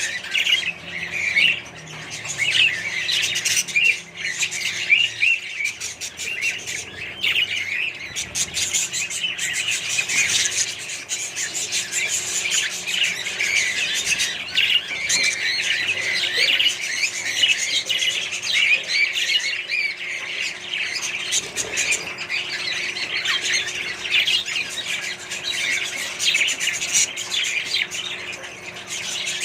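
A colony of budgerigars and other small parrots chattering and squawking together, a dense, continuous mass of many overlapping short calls.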